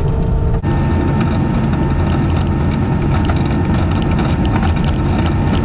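Skid steer diesel engine running steadily under load while its grader attachment's blades cut through the gravel driveway, with a steady whine and a constant clatter of rock and rattling steel. The sound shifts abruptly about half a second in.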